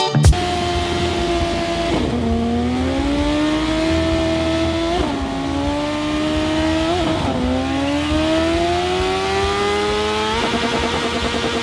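Motorcycle engine accelerating hard through the gears, its pitch climbing and dropping sharply at each upshift, three times. Near the end it gives way to a steady, even tone.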